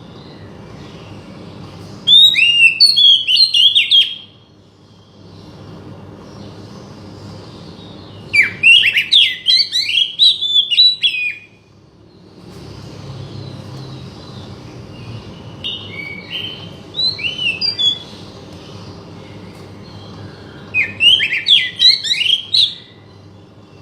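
Oriental magpie-robin (kacer) singing: four bursts of quick, varied whistled phrases a few seconds apart, over a faint steady low hum.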